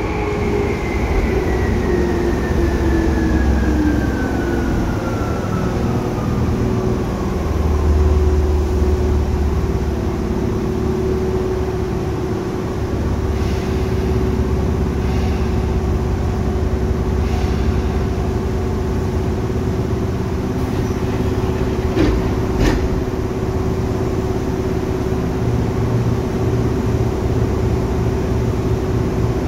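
Tokyu 8500 series train running, heard from inside the car. Its Hitachi traction motors give a whine that falls steadily in pitch over the first several seconds as the train slows. A steady hum and low rumble carry on underneath, with a couple of short clicks about two-thirds of the way through.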